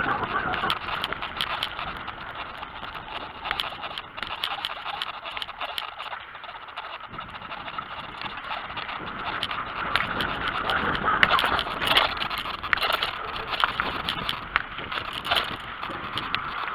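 Wind buffeting the microphone of a bare head-mounted camera while riding a BMX bicycle, with frequent small clicks and knocks from the bike and the road, getting louder about ten seconds in.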